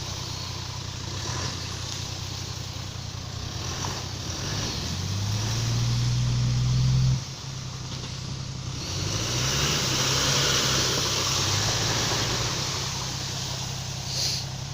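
Car engine revving up and held, cutting off sharply about seven seconds in, then revving again with a rushing hiss. The car is stuck in mud with its wheels spinning on slippery, worn tyres.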